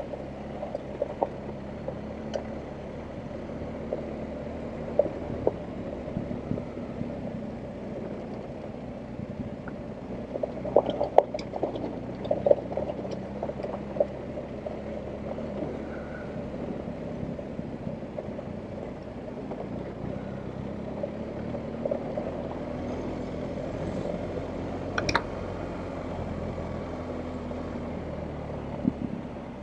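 BMW R1250GS Adventure's boxer twin engine running at low revs over rough off-road ground, its pitch rising and falling a little, with scattered knocks and rattles, a cluster of them about eleven seconds in.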